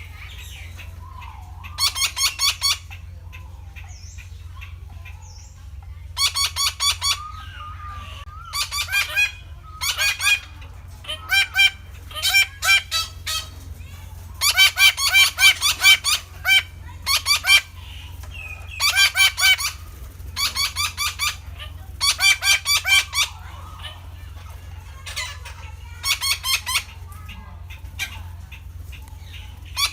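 Red-breasted parakeets calling: bursts of quickly repeated call notes, each burst about a second long, coming again and again with short pauses, over a steady low hum.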